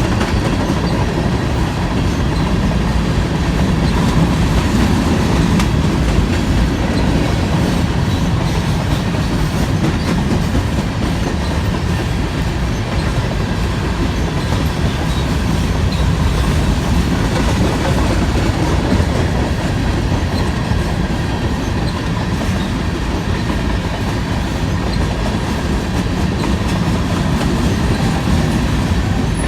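Freight train of covered grain hopper cars rolling past, steel wheels running steadily on the rails.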